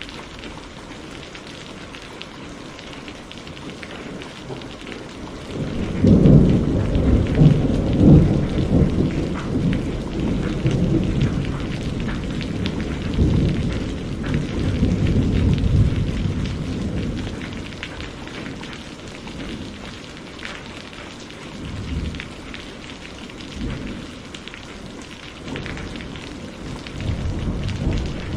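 Steady rain falling, with a long roll of thunder that breaks in about six seconds in, is loudest over the next few seconds, then rumbles on in waves and fades. A weaker rumble of thunder returns near the end.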